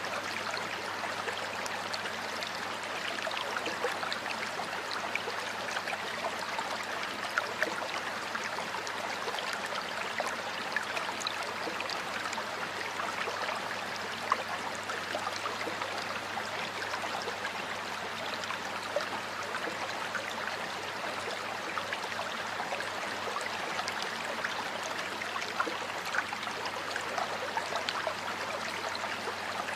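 Stream water flowing steadily over rocks, a continuous babbling rush with many small splashes and trickles.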